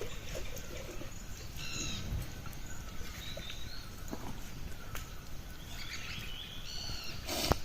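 Outdoor rustling and shuffling, with two short, high animal calls, one about two seconds in and one near the end.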